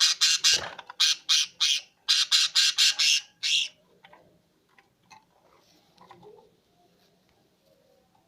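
Pet bird giving a rapid run of about ten loud, harsh squawks, stopping a little under four seconds in, followed by a few faint small sounds.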